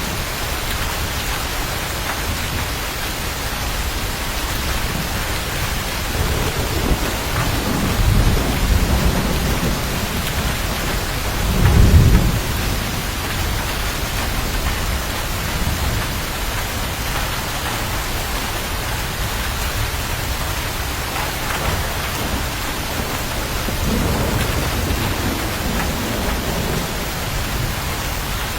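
Steady heavy rain with rolling thunder: low rumbles swell up at several points, loudest about twelve seconds in.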